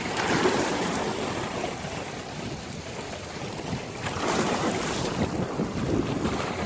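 Sea waves washing onto a beach, with wind buffeting the microphone. The surf swells loudest near the start and again about four seconds in.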